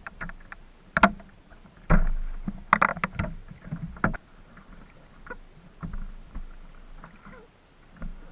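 Irregular knocks and clunks on a plastic fishing kayak, with a few sharper hits in the first half.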